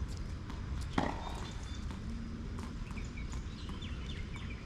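A tennis ball struck sharply by a racket about a second in, among lighter taps of footsteps and ball bounces on the court.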